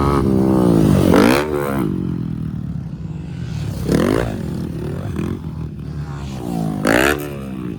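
Motocross dirt bike engines running hard, with three loud revs that swoop down and back up in pitch, about three seconds apart.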